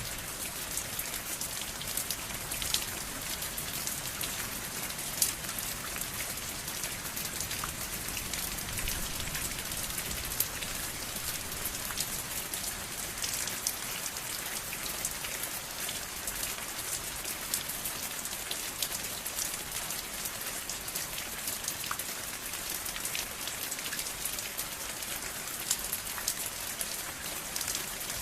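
Steady rain falling, with a dense hiss and many individual drops ticking sharply on a hard surface.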